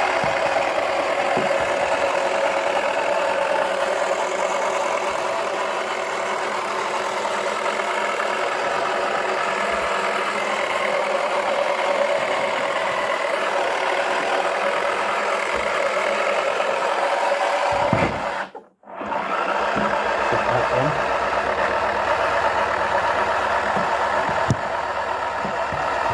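Toy washing machine's small electric motor running steadily, with a brief dropout of the sound about three quarters of the way through and a single click near the end.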